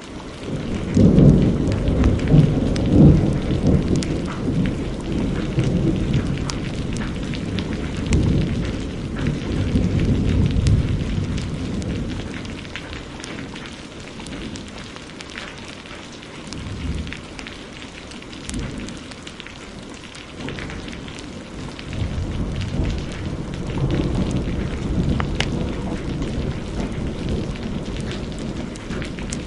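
Heavy rain falling steadily, with a long peal of rolling thunder that starts about a second in and dies away over some ten seconds, and a second, softer rumble near the end. Sharp crackles of a wood fire tick through it.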